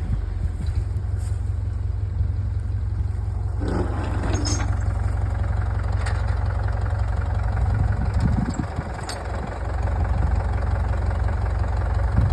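Fordson Power Major tractor engine running steadily at low revs, with a few brief knocks partway through.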